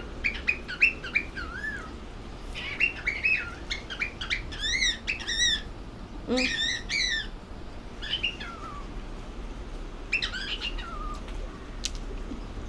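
Cockatiel chirping and whistling in bursts of short rising-and-falling notes, with a few longer wavering whistles near the middle. There is a pause near the end, broken by a single sharp click.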